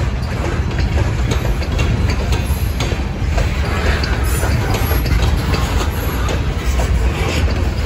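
Freight train of covered hopper cars rolling past: a steady heavy rumble of steel wheels on rail, with repeated clicks and clunks as the wheels cross rail joints.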